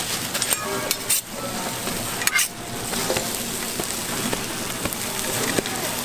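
Food sizzling on a street-stall toast griddle, a steady frying hiss, with two short sharp clatters about one and two seconds in.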